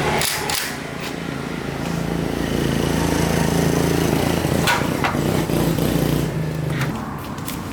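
Small four-stroke Honda motorbike engine running, growing louder as it is revved from about two seconds in and dropping back about six and a half seconds in, with a few sharp clicks.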